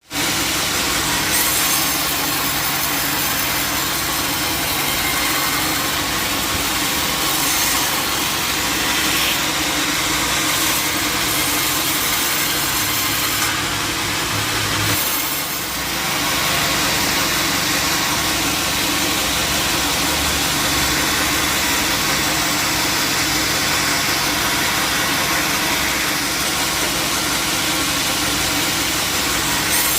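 A sawmill saw cutting steadily through wood, its machinery running under load, with a brief lull about halfway.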